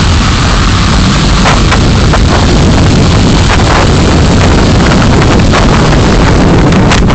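Dashcam microphone in a moving car picking up loud, steady road and wind noise, with short crackles coming thicker near the end.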